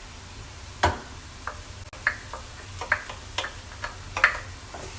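A cooking spoon knocking and scraping against cookware in irregular short clinks, about ten over a few seconds, as masala paste goes in with the frying onions.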